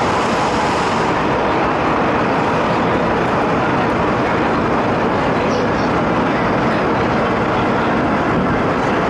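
Steady running noise inside the cabin of an MTR East Rail Line MLR electric train under way.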